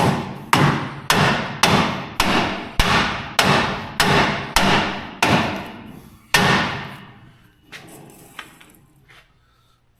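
Rubber mallet blows on a truck's rear axle parts: about eleven strikes, nearly two a second, each with a brief metallic ring. The blows stop about six and a half seconds in, followed by a couple of faint ticks.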